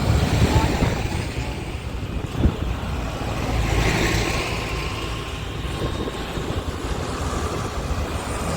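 Tractor engines running steadily as tractors in a run go by, with a short knock about two and a half seconds in.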